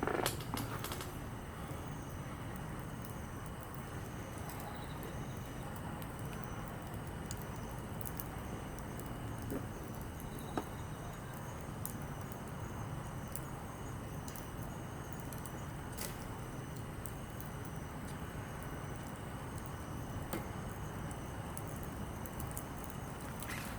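Campfire of split softwood and hardwood logs crackling, with scattered sharp pops at irregular moments over a steady low rumble.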